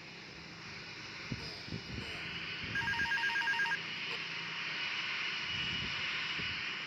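Airbus A340 airliner's jet engines rushing past as it lands, the noise swelling from about two seconds in. About a third of the way through, a short burst of rapid two-tone electronic beeps, about ten pulses in a second, like a phone ringing.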